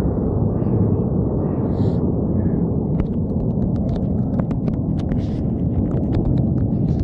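Aircraft engine noise: a loud, steady, deep rumble. From about three seconds in, a run of sharp clicks sits on top of it.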